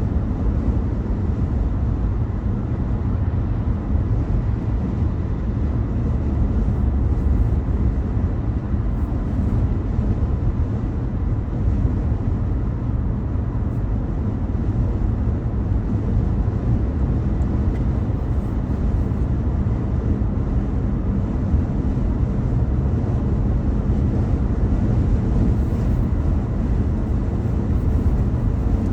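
Steady low rumble of road and engine noise from a car driving, even and unbroken throughout.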